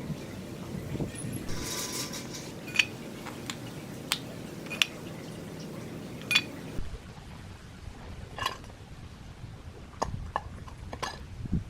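Scattered light metallic clinks and taps of small metal parts being handled, over a steady low hum that stops abruptly about seven seconds in.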